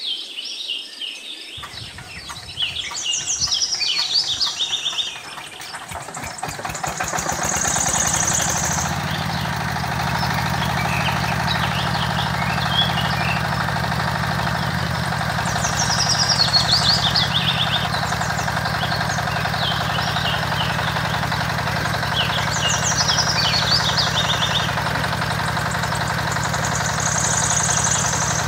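Small engine driving a mini water pump, starting about a second and a half in with slow chugs that speed up over a few seconds, then running steadily. Birds chirp over it now and then.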